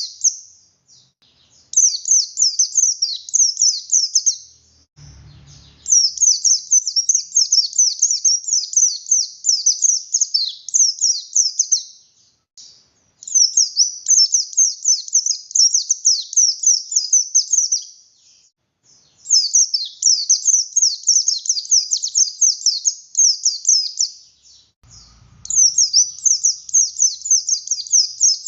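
A white-eye of the Buxtoni type singing hard: long phrases of rapid, high, sweeping chirps, about five phrases with short pauses between them. Two faint low bumps come under the song, about five seconds in and near the end.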